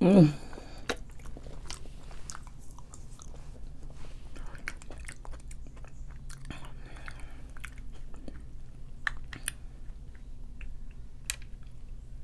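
Close-miked eating of a seafood boil: wet chewing and mouth sounds with scattered clicks and crackles as shellfish is picked apart by hand. A brief, loud voiced sound comes at the very start.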